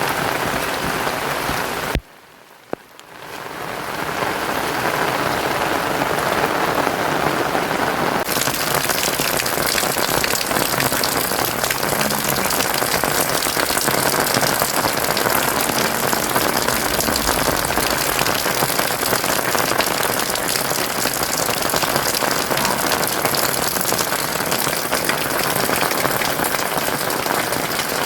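Heavy rain falling in a steady downpour. About two seconds in, the sound cuts out abruptly and then fades back in within a second or two.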